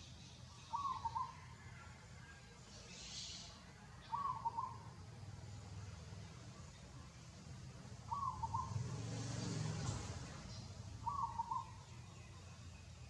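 An animal call, short and alike each time, repeated four times about every three to four seconds over a low steady background hum.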